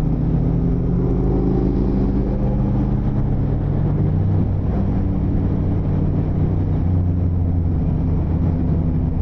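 Motorcycle engine running steadily under way, with wind and road noise, the engine note shifting slightly about halfway through.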